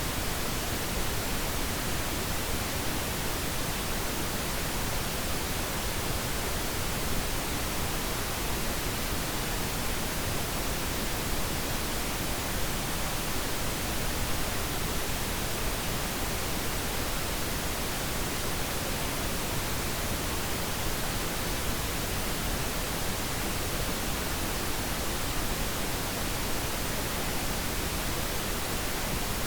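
Pink noise: a steady, unchanging hiss, generated for sleep and soothing babies.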